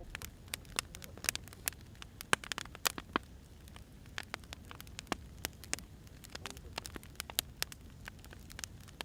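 Firewood burning, crackling with many irregular sharp pops and snaps over a low, steady hiss.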